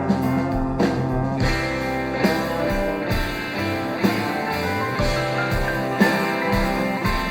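Live rock band playing an instrumental passage, with guitar and a steady drum beat.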